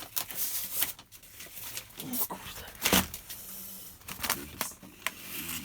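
Papers and objects being handled while rummaging through a cupboard: rustling, crinkling and small knocks, with one sharper knock about three seconds in. Faint voices near the end.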